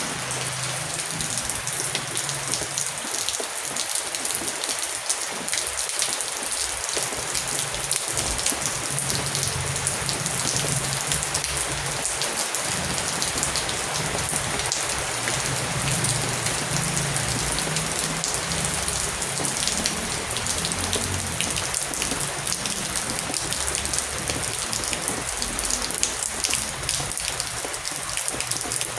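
Heavy rain falling steadily, a dense hiss full of fine individual drop ticks.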